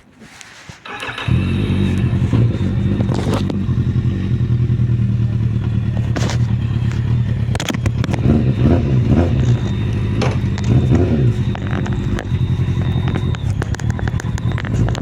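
Kawasaki Z750 motorcycle's inline four-cylinder engine starting up about a second in and running on steadily, its revs rising and falling a few times in the middle.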